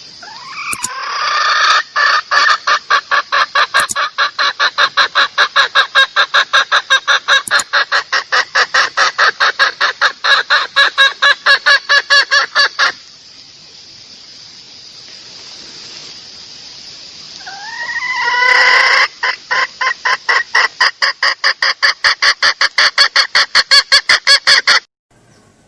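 Junglefowl hen call: two long runs of rapid clucks, about four a second, each opening with a rising call. The second run starts after a pause of a few seconds and cuts off suddenly near the end.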